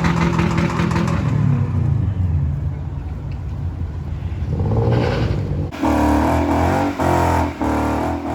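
Car engines running and revving, with one rising rev about five seconds in. Near the end, music with a throbbing beat comes in.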